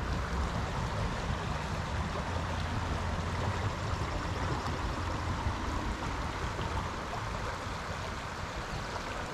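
A small stream running over riffles: a steady rush of splashing white water.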